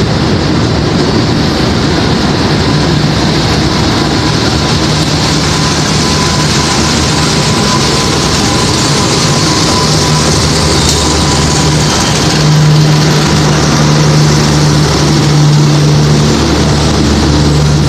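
Diesel-electric locomotive running as it pulls a passenger train past along the platform, followed by the carriages rolling by on the rails. A steady low engine hum grows louder about twelve seconds in.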